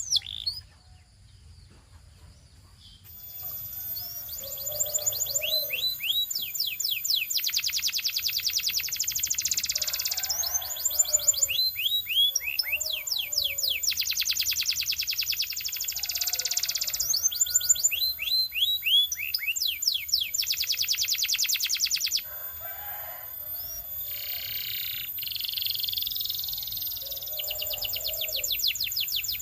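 Belgian canary singing. After a short pause at the start, the song picks up about three seconds in and runs on in long phrases of rapid, repeated falling notes and fast trills.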